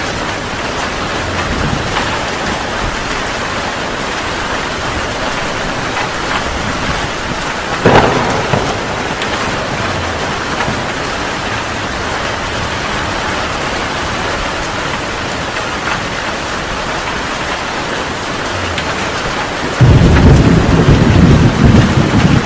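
Heavy rain falling steadily, with a sharp crack of thunder about eight seconds in. Near the end a loud, low thunder rumble starts suddenly.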